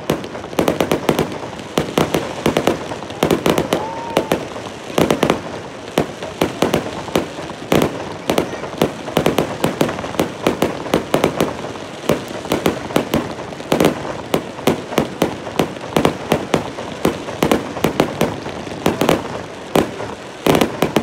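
Aerial fireworks going off in rapid succession: a dense, irregular string of sharp bangs and pops, several a second, with no let-up.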